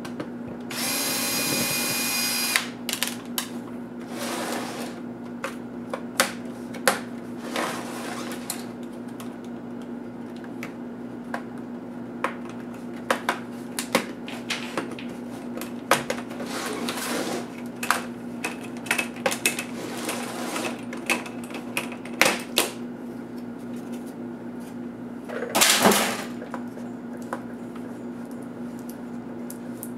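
Small handheld power tool whirring for about two seconds near the start, backing screws out of a laptop. After it come many short clicks, taps and scrapes of screws and plastic parts being handled, with a louder scraping rasp near the end, over a faint steady hum.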